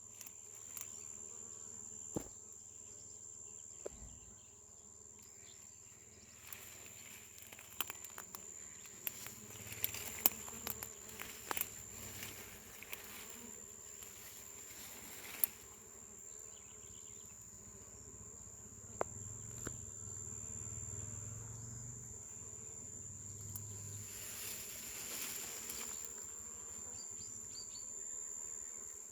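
Honeybees buzzing as they forage among flowering bamburral, a low hum that swells and fades as bees come near. A steady high-pitched insect whine runs underneath, and there are a few light clicks.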